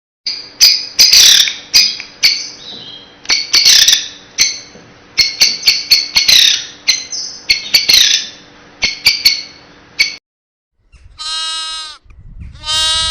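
For about ten seconds, a rapid string of short, sharp, high-pitched squawks and chirps from an animal or bird. After a brief gap, a sheep bleats twice, the second bleat running on past the end.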